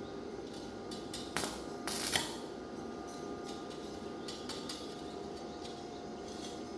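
Two sharp knocks, about a second and a half and two seconds in, and scattered light clicks over a steady hum, typical of work going on in a repair shop.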